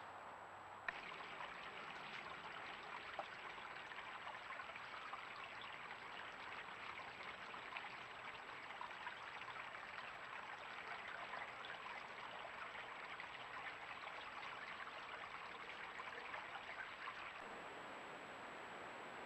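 Steady crackling hiss of water, such as rain or running water, starting with a click about a second in and cutting off abruptly near the end. A faint thin high whine runs underneath.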